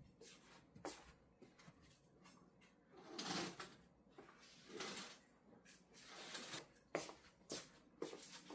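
Faint household handling sounds: a few light clicks and knocks, with brief soft rustles between them.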